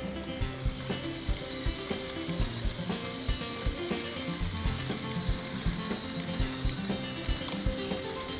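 LEGO Technic Power Functions motors driving the truck's plastic gearing, a steady high gear whir with ratcheting, starting about half a second in, over background music.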